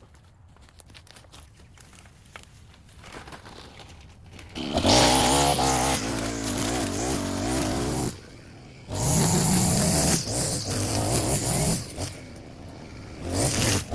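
A small gas engine of yard equipment starts up loudly after a few quiet seconds. It revs with a wavering pitch and drops back twice, as when a throttle is let off and squeezed again.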